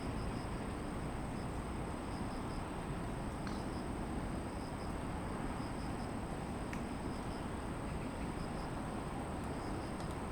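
Steady city traffic hum under continuous insect song: one unbroken high trill, with a second, lower insect chirping in rapid pulses.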